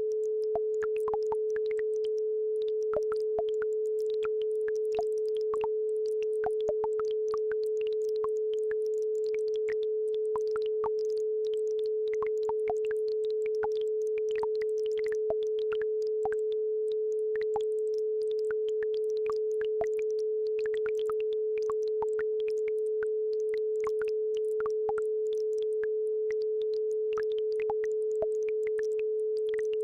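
A steady pure tone at about 432 Hz, the base frequency of a brainwave-entrainment track, with faint babbling-brook water sounds: scattered small trickles and droplet plinks.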